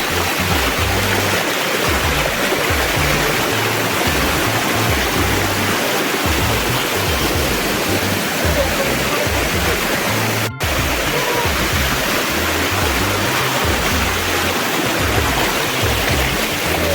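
Waterfall rushing with a steady, loud noise, mixed with background music carrying a low bass line. There is a brief break in the sound about ten seconds in.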